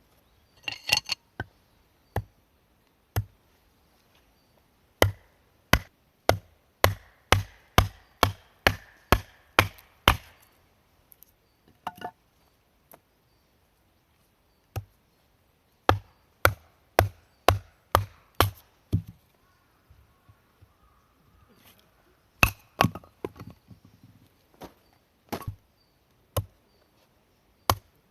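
Firewood being chopped: sharp wooden strikes, about two to three a second, in three runs with quiet pauses between.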